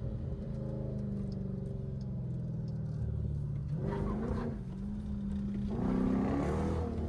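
Straight-piped Dodge Durango exhaust running under way, its note climbing as the engine revs up about four seconds in and again, louder, near the end.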